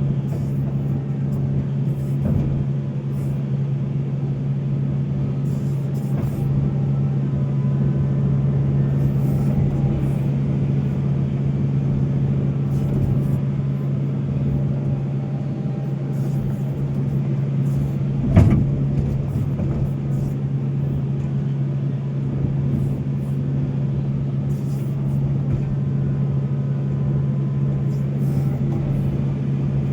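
Volvo excavator's diesel engine running steadily, with one sharp knock a little past the middle.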